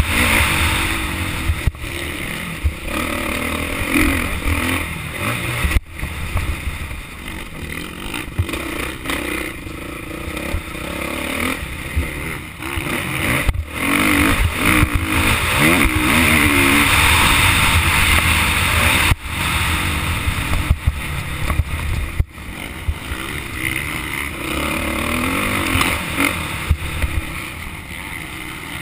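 Motocross bike engine running hard and revving up and down as it is ridden round the track, its pitch rising and falling, with a few brief sharp breaks in the sound.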